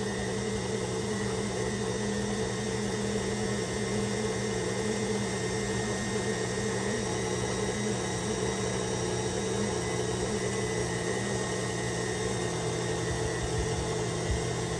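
KitchenAid stand mixer's motor running at a steady speed, driving the Spiralizer Plus attachment as it spiralizes a cucumber: an even mechanical hum.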